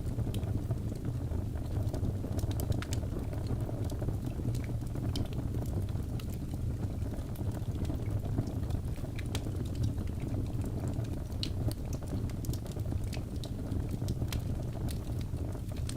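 Wood logs burning in a fireplace: a steady low rumble of flame with frequent, irregular sharp crackles and pops.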